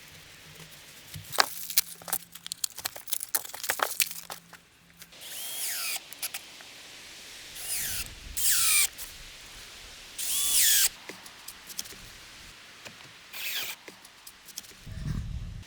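A run of small clicks and knocks, then five short rasping bursts of a tool at work, each under a second long.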